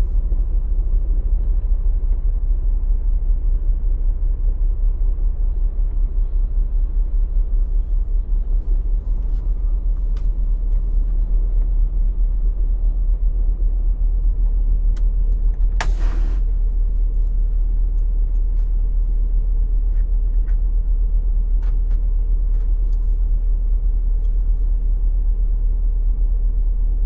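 Peterbilt semi truck's diesel engine running steadily, a deep low rumble, with one short hiss of air about sixteen seconds in.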